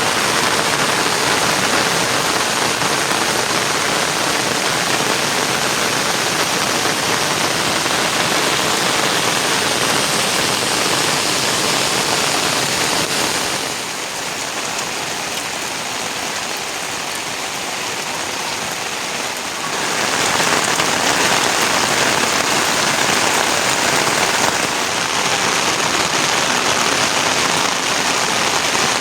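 Heavy rain falling steadily, a little softer for about six seconds in the middle.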